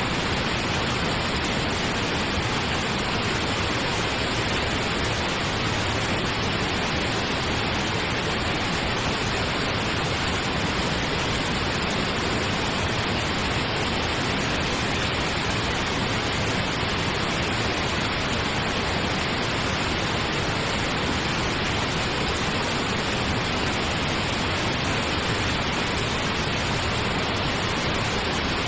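Steady pink noise: an even, unchanging hiss with no other sound.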